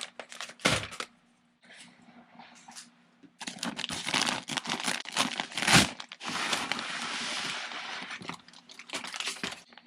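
Plastic packaging crinkling and rustling as it is handled, in irregular bursts with short pauses.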